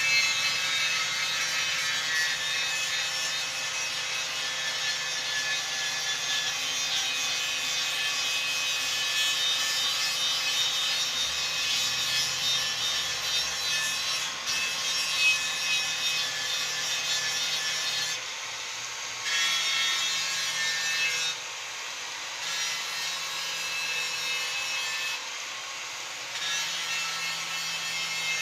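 Continuous abrasive scraping or sanding on the old motorcycle fuel tank, with short pauses about two thirds of the way in and again near the end.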